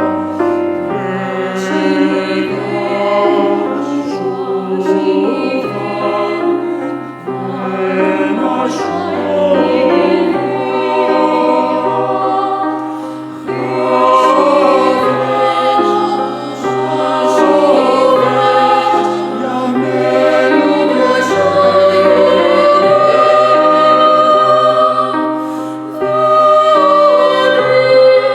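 A vocal ensemble singing a song in several-part harmony, with long held chords over a low bass part and short breaths between phrases.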